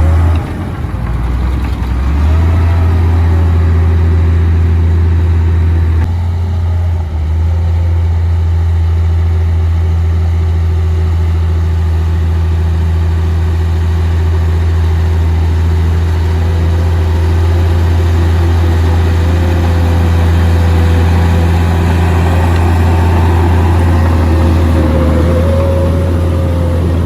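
Komatsu D58P bulldozer's diesel engine running steadily, with a higher whine that wavers in pitch above the deep engine drone.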